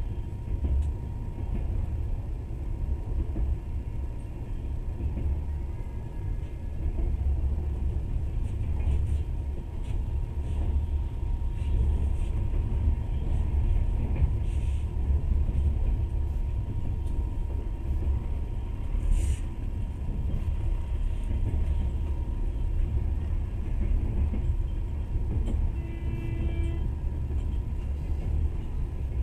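Passenger train running along the track, heard from inside the carriage: a steady low rumble with a faint steady thin whine over it. A sharp click about two-thirds through, and a brief pitched tone near the end.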